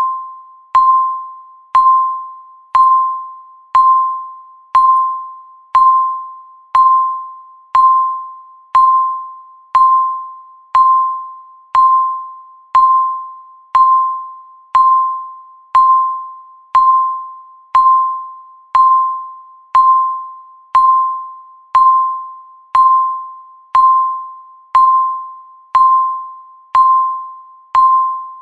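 Countdown timer's tick sound, once a second: each tick a short click-started electronic ding that rings briefly and fades.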